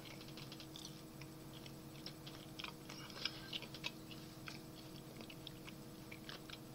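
Faint chewing of a chocolate-covered caramel nut chew bar: irregular soft clicks and smacks of the mouth, over a faint steady hum.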